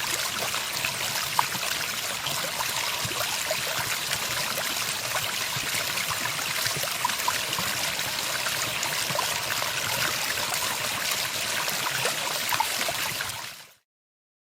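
Running water, a steady rushing and trickling like a stream, with no birdsong over it; it fades out quickly near the end.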